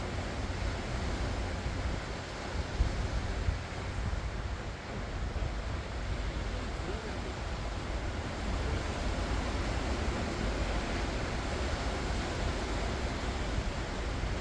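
Sea waves breaking and washing ashore in a steady surf wash, with wind rumbling on the microphone.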